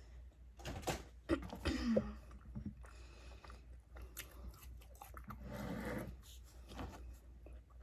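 Close-miked chewing and biting of Five Guys Cajun fries, with irregular crunching and wet mouth sounds.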